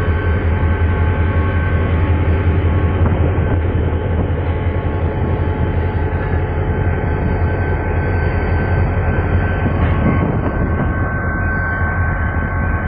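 A diesel-hauled passenger train moving off slowly, heard from its carriage: a steady low engine drone under a continuous rumble, with a faint steady high whine.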